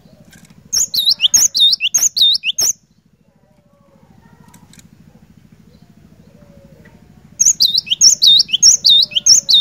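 Cinereous tit (glatik batu) singing: two loud bursts of quick, high, repeated notes, each about two seconds long, the second starting near the end. A faint steady low hum lies underneath.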